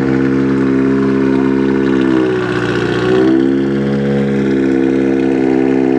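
Car engine idling close by with a steady low drone; its pitch sags and comes back briefly a couple of seconds in, then wavers again around the four-second mark.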